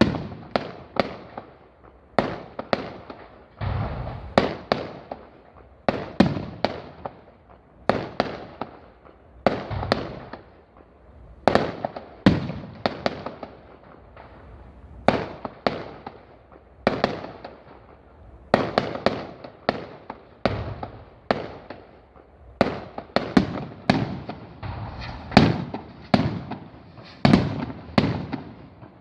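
Fireworks display: a rapid, irregular series of loud aerial shell bursts, one to three bangs a second, each booming and echoing briefly.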